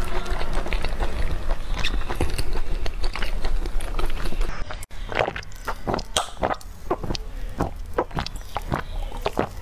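Close-miked wet chewing and smacking mouth sounds of a person eating, with a brief cut about halfway through, after which the chews come as separate sharp smacks about three a second.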